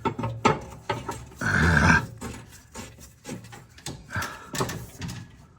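A man grunting with effort twice, over scattered metal clicks and knocks, while working the drive belt onto a Cub Cadet mower deck's pulleys.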